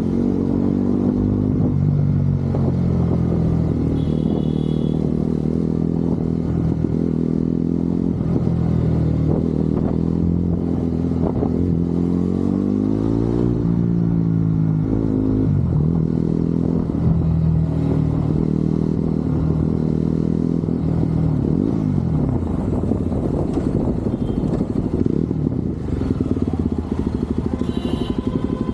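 Motorcycle engine running on the move, its pitch rising and falling with the throttle and gear changes, with a sharp climb and fall about halfway through.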